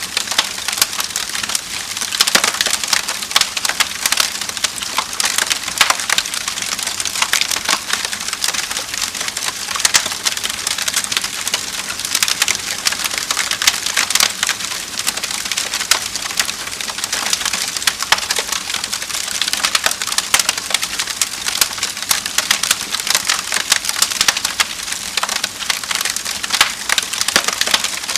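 Wood fire crackling steadily: a dense run of small sharp crackles over a soft hiss.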